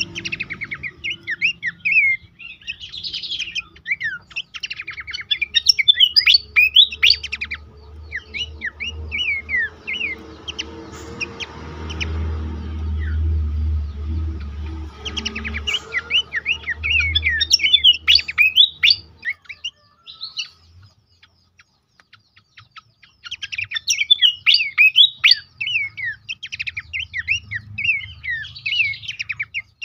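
Pelanduk semak babbler calling in rapid bursts of quick, falling chirps, with a pause of a few seconds about two-thirds through. A low rumble runs under the middle part.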